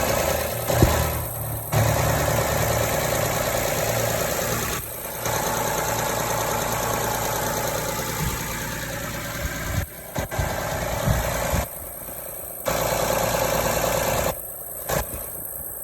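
Honda Odyssey minivan engine idling steadily, with a rough, noisy hiss over the low hum and several brief drops in level. The owner suspects an exhaust or vacuum leak.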